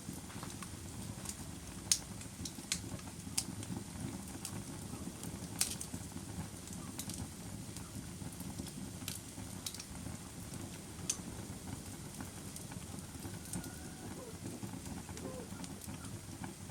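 Fire crackling: sharp pops at irregular intervals over a steady low rustle of burning.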